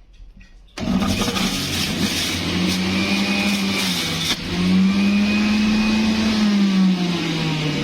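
JUILIST 400 W juicer motor switching on about a second in and running loud, its hum sagging and rising again as if under load from produce.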